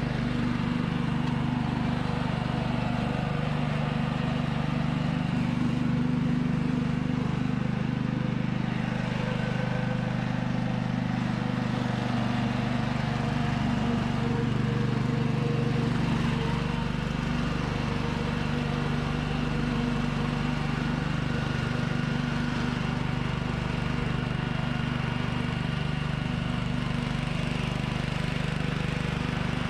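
Small riding-mower engine of an old Murray lawn tractor running steadily under load while it tows a dead garden tractor.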